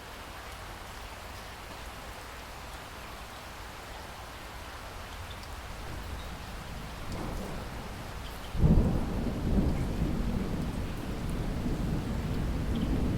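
Steady heavy rain, with thunder rumbling in low from about halfway through and breaking into a loud, sudden peal about two-thirds of the way in, then rolling on.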